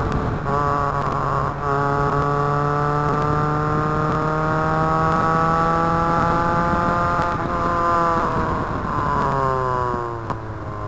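Nissan 100NX's four-cylinder engine pulling under load on a race track. The revs break briefly about one and a half seconds in, then climb slowly for about six seconds and fall away over the last few seconds as the car slows.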